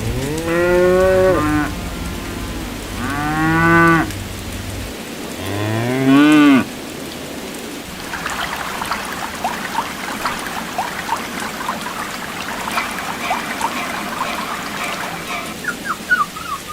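Cow mooing three times, with long, arching calls in the first seven seconds. It is followed by a continuous chatter of short, high chirps.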